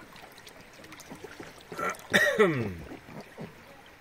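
A person's voice lets out one loud, wordless exclamation about two seconds in, sliding down steeply in pitch, over a faint background.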